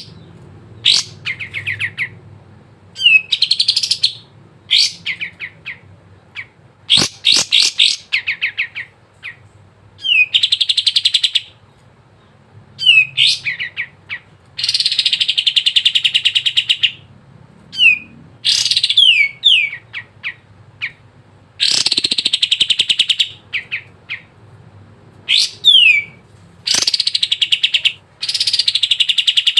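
A kapas tembak singing energetically in repeated phrases of rapid trills and quick downward-sliding whistles, each phrase a second or two long with short pauses between, over a faint low hum.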